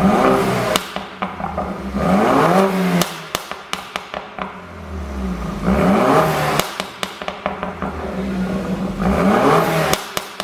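BMW 428i's turbocharged 2.0-litre four-cylinder blipped through four rev rises, each falling back on the overrun into a string of exhaust pops and crackles, the sound of a pop-and-crackle ECU tune.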